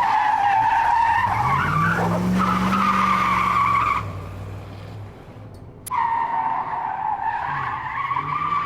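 A drifting car's tires squealing in a long, wavering squeal over a running motor, whose pitch rises about two seconds in. The squeal drops away about four seconds in and cuts back in abruptly about two seconds later.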